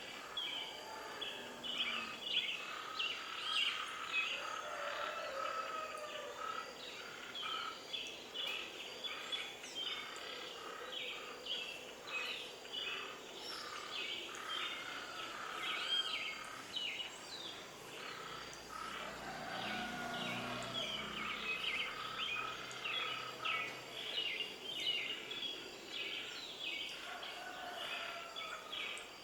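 A chorus of many birds calling at once, dense overlapping chirps and warbling calls with no break.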